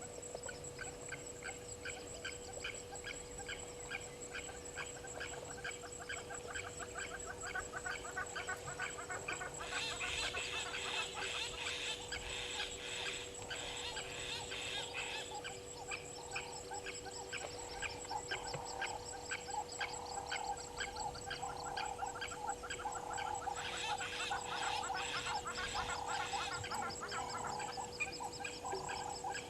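Waterhole bush ambience of many rapid, repeated chattering bird calls that swell twice, over a steady faint high drone.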